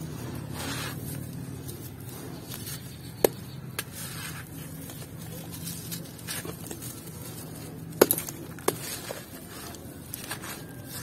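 Crunchy yellow block chunks being crumbled, with a steady crackling crumble and a few sharp snaps as pieces break, the loudest about 8 seconds in.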